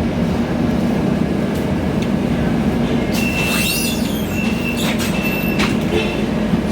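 Interior running noise of a Scania K320iA CNG city bus on the move: a steady engine and road rumble. A high-pitched squeal comes and goes from about halfway through, with a few rattling clicks.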